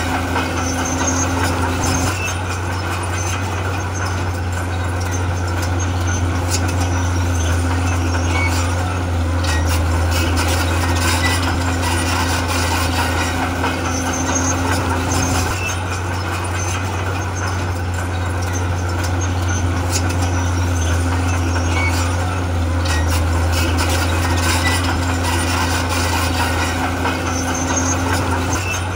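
Diesel engine of heavy earthmoving machinery running steadily: a continuous low drone, with a higher hum that drops out and comes back several times.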